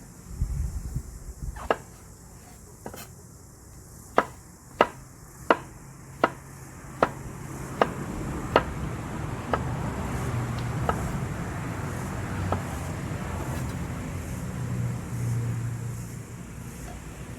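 Knife chopping on a cutting board: a run of sharp single knocks, about one every 0.7 s, thinning out after about ten seconds.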